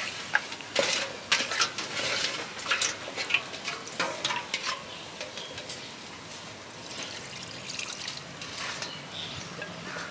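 Chicken in a clay pot sizzling as a little water, rinsed from the mixing bowl, is poured in, with scrapes and clicks of stirring against the pot in the first half, then a quieter, steady sizzle.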